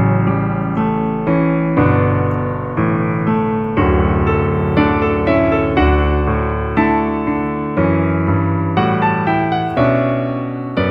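Background piano music: a slow melody of notes struck one after another, each fading before the next.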